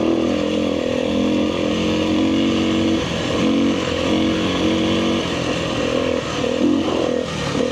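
Kawasaki KLX300R dirt bike's single-cylinder four-stroke engine running under changing throttle, its pitch rising and falling several times as it revs up and eases off.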